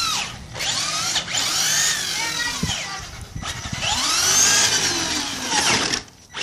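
Small electric motor of a remote-control toy car whining, its pitch rising and falling several times as it speeds up and slows down.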